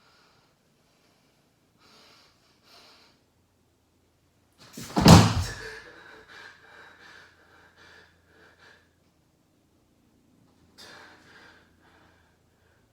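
Sharp breaths, then a single loud bang about five seconds in, followed by more uneven breathing.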